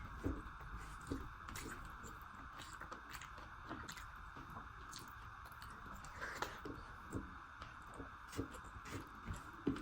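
Close-miked chewing of a mouthful of food, with soft wet smacks and small irregular clicks of the mouth, over a steady background hiss.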